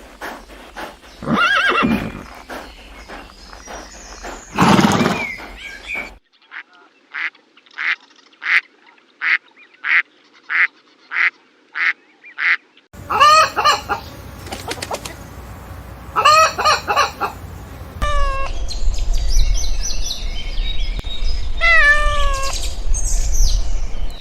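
Farm fowl calling in a string of short clips: first a few loud calls, then a rapid even series of about a dozen short calls, about two a second, then honking calls with falling pitch over a low rumble in the second half.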